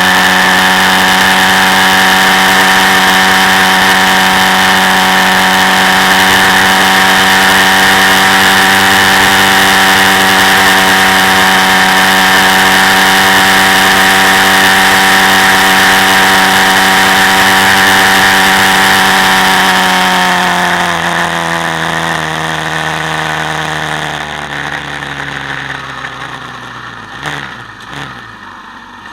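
Quad bike engine running at steady revs for most of the stretch, then the revs and loudness fall away over the last several seconds as it slows down, with a couple of short knocks near the end.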